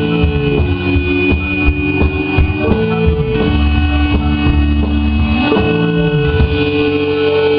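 Live rock band playing an instrumental passage on electric guitar, bass, drums and synthesizer, with held notes over sliding bass lines and drum hits. Near the end the bass and drums drop away, leaving sustained notes ringing.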